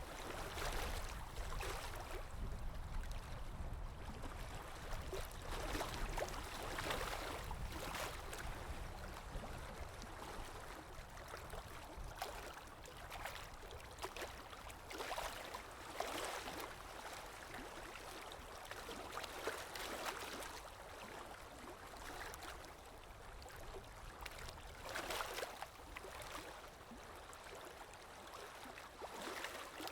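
Water lapping in small irregular swells, with a soft wind rumble underneath, mostly in the first few seconds.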